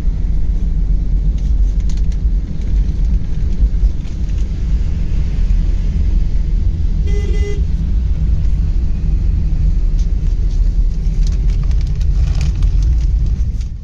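Steady low rumble of a car on the road, with a vehicle horn sounding once, briefly, about halfway through.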